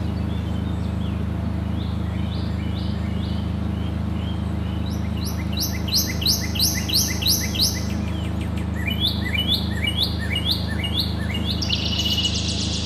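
Songbird singing in phrases of short falling chirps, about three a second, over a steady low hum.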